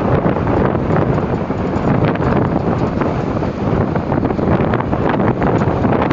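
Strong wind, around 70 km/h, buffeting the microphone in a loud, continuous gusty rumble.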